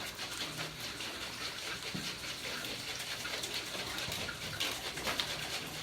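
Steady running, trickling water sound, a home-made sound effect for eyes that water without stopping.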